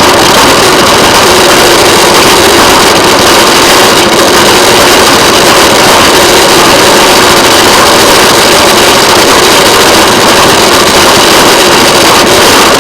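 Railway motorcar running along the track: its small engine and the travel noise make a loud, steady, unchanging noise.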